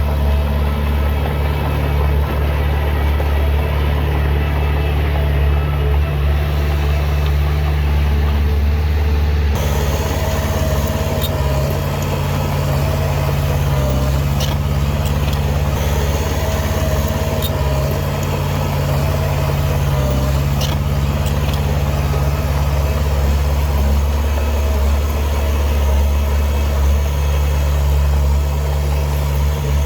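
Heavy diesel engine of earthmoving machinery running steadily with a deep hum. The sound shifts abruptly about ten seconds in, and a few faint clanks follow.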